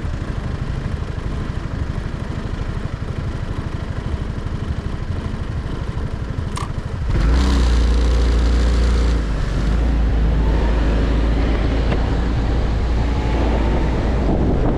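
Motorcycle engine idling with an even low pulse; after a click about seven seconds in, the bike pulls away and accelerates, and wind rushing over the microphone becomes loud.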